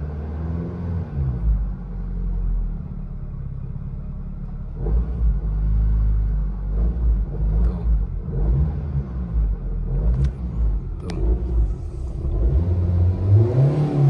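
Nissan Grand Livina petrol engine idling unsteadily, heard from inside the cabin: the revs rise and fall again several times on their own with no foot on the throttle. This hunting idle is the fault the mechanic is tracing, tied to the car's hesitation when pulling away.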